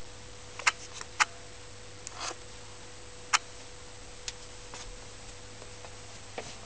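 Worcester Bosch 440 CDi gas boiler giving off a steady hum, a low drone with a higher constant tone over it. Several sharp clicks land at irregular moments, the loudest a little under a second in, just after a second, and past three seconds.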